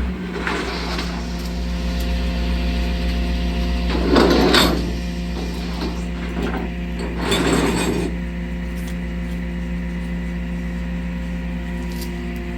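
A tow truck's engine idling steadily. Two short, loud, noisy bursts come over it about four and seven seconds in.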